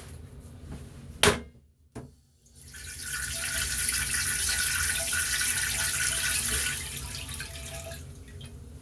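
Click of a control, then water running from the restroom sink faucet of a Metro-North M3 railcar for about four seconds before tapering off, over the low rumble of the train.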